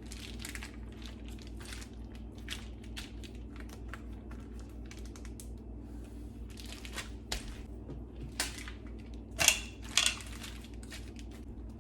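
Plastic bag of marinating chicken crinkling and rustling as it is handled, in irregular bursts with two louder crackles near the end, over a low steady hum.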